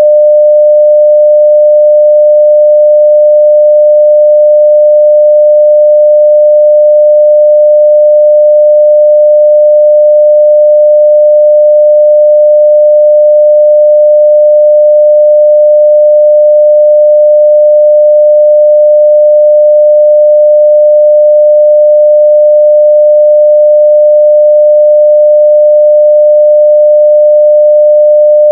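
A steady 600 Hz sine-wave test tone at full level (0 dB), one pure pitch held unchanging.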